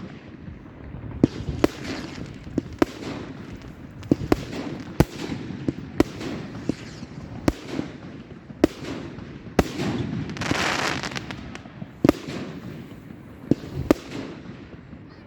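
Consumer fireworks going off in a display: a rapid, irregular string of sharp bangs about one every half second to a second, over a steady hiss of burning and falling effects, with a louder rush of hiss about ten seconds in.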